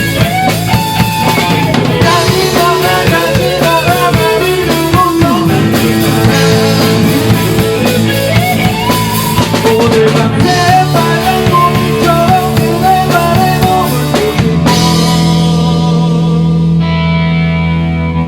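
Rock band playing live: drum kit, distorted electric guitar and bass. About fifteen seconds in the drums stop and a final chord is left ringing, wavering with a chorus effect.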